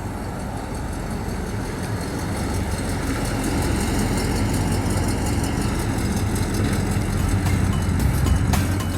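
1969 Oldsmobile Delta 88's 455 cubic-inch Rocket V8 running with a steady low rumble, gradually getting louder.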